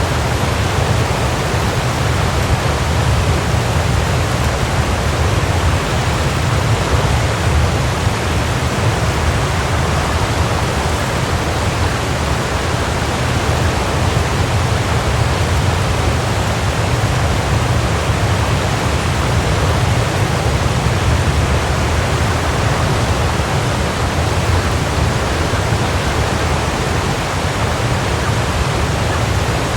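Waterfall: falling water rushing steadily, a constant full roar with no breaks.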